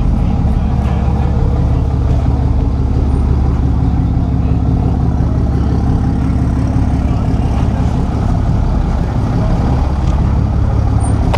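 Truck engine running steadily, close and loud, with a deep, even hum.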